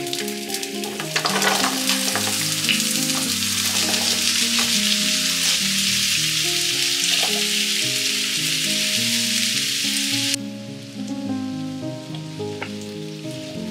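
Raw potato sticks frying in hot oil in a pan, a loud steady sizzle that drops suddenly to a fainter sizzle about ten seconds in.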